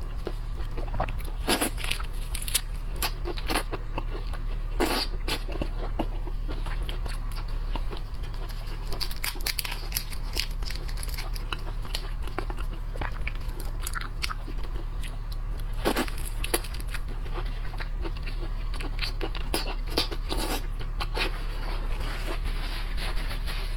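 Close-up eating of seafood: irregular crunching and chewing with sharp crackles as shells and flesh are bitten. A steady low hum runs underneath.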